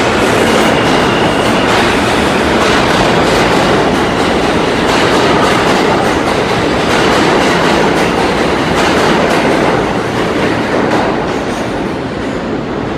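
R179 subway train moving at low speed, wheels clattering over rail joints and switches with a steady rumble, easing off slightly near the end.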